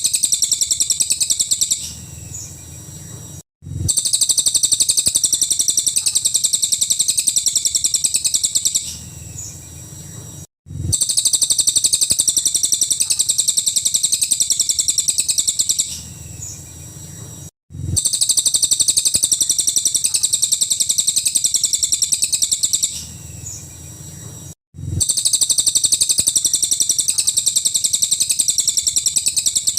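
Cililin songbird singing its 'nembak' song: very fast, high-pitched runs of sharp repeated notes. Each run lasts about five seconds and is followed by a short, quieter pause and a brief cut-out, repeating about every seven seconds, so it sounds like a looped recording.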